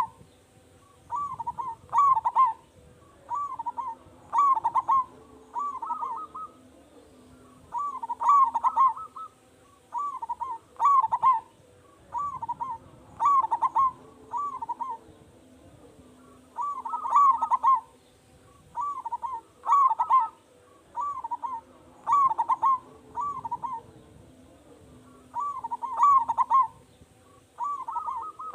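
Zebra dove (perkutut) cooing loudly and repeatedly, with a phrase of several rolling coos about every two seconds.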